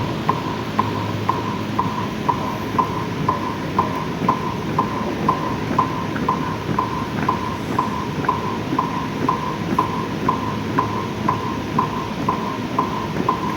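Steady metronome-like ticking, a little over two ticks a second, each tick a short knock of the same pitch, over a constant background hubbub.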